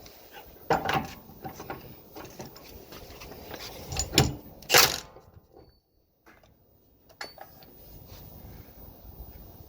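A few scattered knocks and clunks, loudest about four to five seconds in, then a short near-silent gap and faint handling noise.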